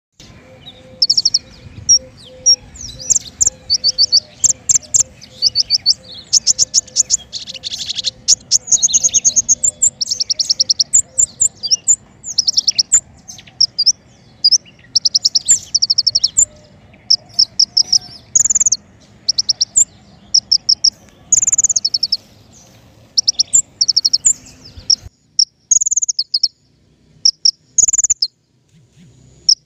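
Song of a king konin bird, played as a lure call: short, high-pitched trilled phrases and sharp chirps repeated one after another, with a faint low hum underneath that stops about 25 seconds in.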